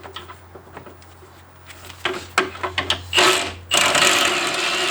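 Light clicks of tools on metal, then about three seconds in a cordless power tool runs in two loud bursts, spinning a bolt loose.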